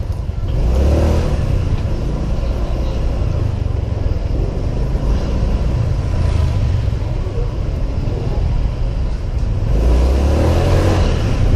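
Ride noise from a Honda PCX 125 scooter under way in city traffic: the engine running, with wind rumbling on a helmet-mounted camera. The sound swells louder about ten seconds in.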